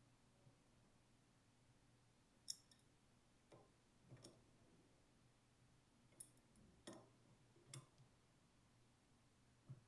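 Faint, scattered clicks and light taps, about seven in all, from the detergent pump's small fittings and tools being handled as the priming valve is fitted and snugged. A faint steady low hum sits underneath.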